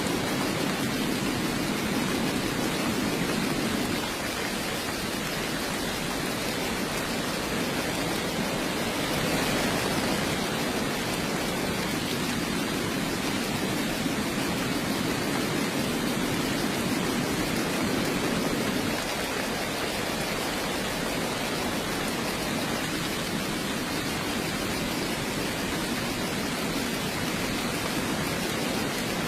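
Steady heavy rain, an even hiss with no separate drops standing out.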